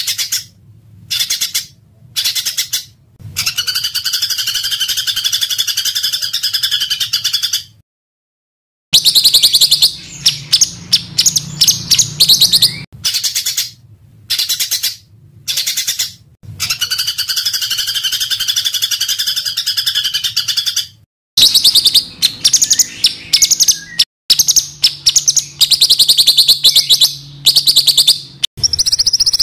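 Small songbirds giving dense, harsh rapid-fire 'tembakan' call bursts, trains of sharp high notes several seconds long, used as masteran (song material) for training cage birds such as the magpie-robin. Segments are joined with abrupt cuts, with brief total silences near the start, about a third of the way in and about two-thirds of the way in.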